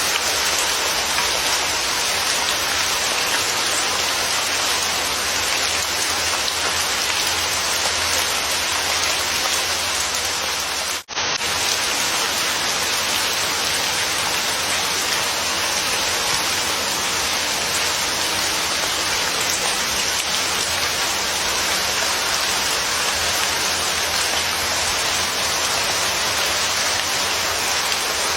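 Steady, dense rainfall pattering on surfaces. About eleven seconds in, the sound cuts out for a split second and then resumes.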